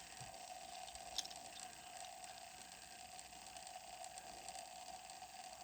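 Faint room tone with a steady hum and one faint click about a second in.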